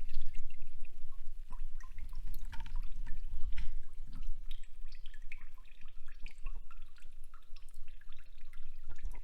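Water dripping and trickling in the sluice, scattered small drops and splashes over a low rumble.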